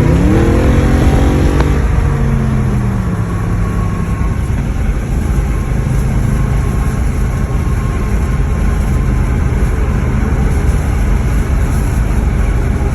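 Audi engine running with the muffler and resonator deleted, revving hard with the pitch climbing for about a second and a half, then easing off and settling into a steady loud rumble.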